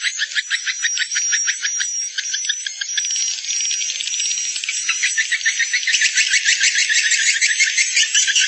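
Swiftlet roosting-call lure recording: a fast, rhythmic run of high chirping calls repeating several times a second, with a thin steady high tone through the middle. The chirping grows denser and louder about six seconds in.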